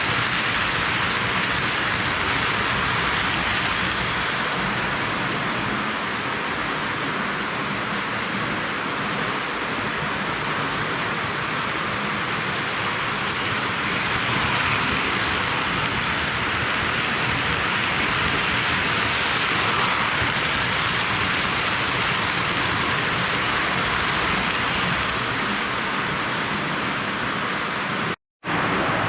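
Postwar Lionel O gauge toy steam locomotives running steadily around the track, a continuous rumble of metal wheels on the rails and the locomotives' motors. The sound cuts out for a moment near the end.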